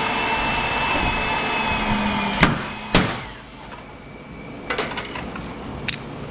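A motor-driven transformer-cracking machine running with a steady whine, with two sharp cracks as transformers are broken. The motor stops about three seconds in, and a few lighter metal knocks follow.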